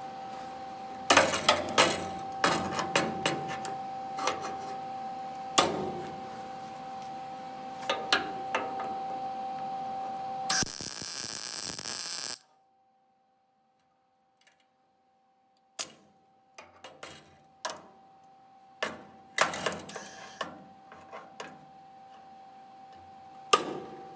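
Workshop metalwork sounds: a run of sharp metallic knocks and clanks of tools and panels being handled, over a steady two-tone hum. About halfway a loud hiss lasts some two seconds, then the sound cuts off suddenly for a few seconds before quieter knocks and taps resume.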